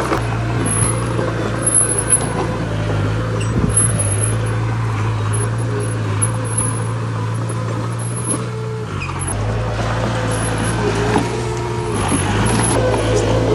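Heavy diesel earthmoving machinery running steadily with a low engine hum, which shifts briefly about nine seconds in and grows louder near the end.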